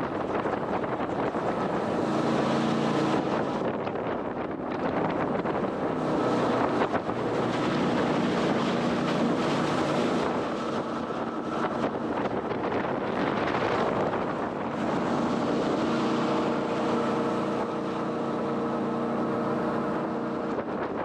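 Jet boat running under way on a river, its engine note changing a few times over rushing water, with wind buffeting the microphone.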